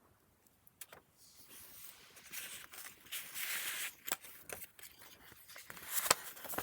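Paper rustling as pages of a handmade junk journal are handled and turned, building up about a second and a half in, with a few sharp ticks and taps of paper and card.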